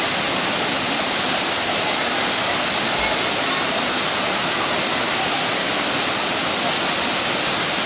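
Steady, loud rush of falling water, as at a waterfall, unbroken throughout.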